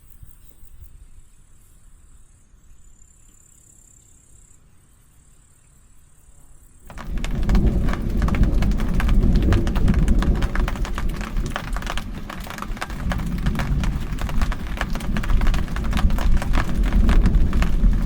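Faint outdoor quiet at first, then about seven seconds in a sudden switch to heavy rain, a loud dense patter over a deep rumble.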